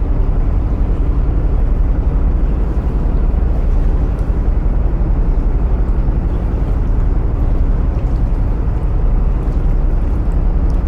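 Narrowboat diesel engine running steadily inside a canal tunnel: a loud, even, low rumble.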